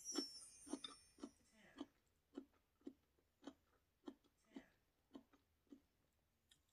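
Close-miked chewing: soft, wet mouth clicks about twice a second, faint.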